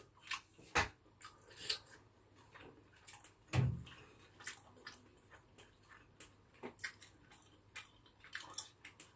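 Close-up eating sounds of someone chewing oven-roasted chicken: scattered short wet clicks and smacks, with one louder smack about three and a half seconds in.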